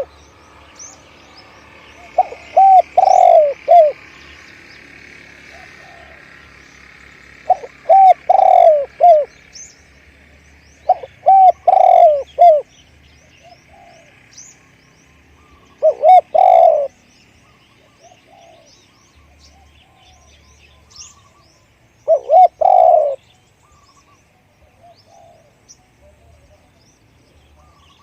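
Spotted dove cooing: five short phrases of a few rolling notes each, about every four to six seconds. Small birds chirp faintly between the phrases.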